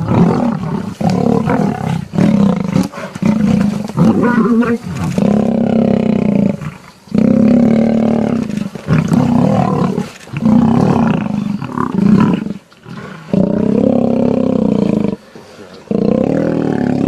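Lions fighting, roaring loudly again and again. Each roar lasts about a second, with brief gaps between.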